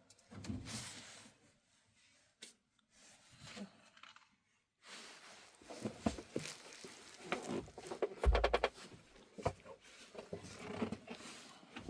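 Scattered knocks, clicks and rustles of objects being handled in a small room, with a quick run of clicks and a low thump a little past eight seconds in.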